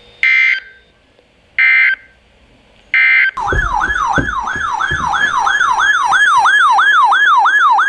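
Emergency Alert System broadcast: three short bursts of screeching digital header data, then a loud siren-like alert tone that sweeps up and down about three times a second, signalling the start of a new alert.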